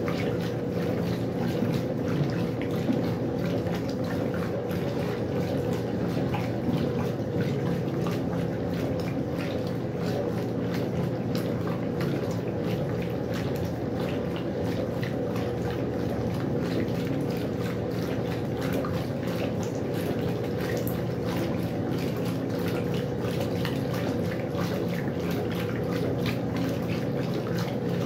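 Westinghouse washing machine with water splashing and trickling in the tub over a steady machine hum.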